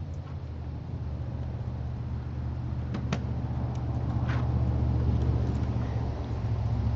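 Stock carbureted 305 V8 of a 1985 Chevrolet Monte Carlo SS running cold shortly after a cold start, with its electric choke broken. It is a steady low idle that grows a little louder through the middle, with a couple of sharp clicks about three and four and a half seconds in.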